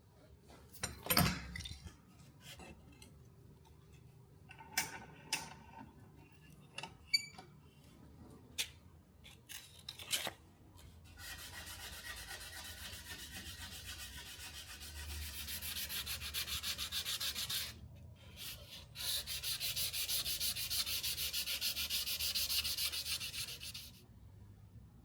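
Hand sanding or rubbing with an abrasive, quick steady back-and-forth strokes in two runs of about six and five seconds. Before the sanding come scattered small knocks and clicks of tools being handled.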